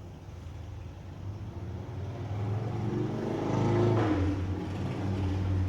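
A motor vehicle passing by, its engine growing louder to a peak about four seconds in and dropping in pitch as it goes past.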